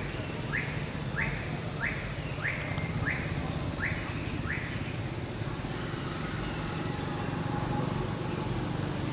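Bird calling a series of short rising notes, a little under two a second, that stop about five seconds in, with thinner high chirps scattered through. A steady low rumble runs underneath.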